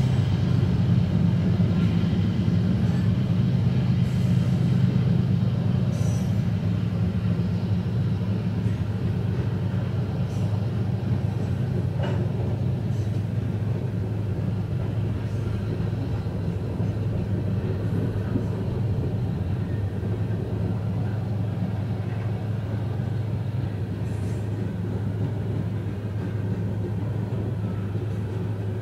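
A steady low vehicle rumble that eases off slightly in level over the stretch.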